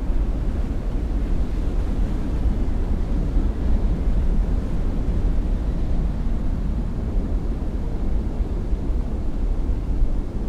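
Boat engine running steadily, a low rumble with wind on the microphone.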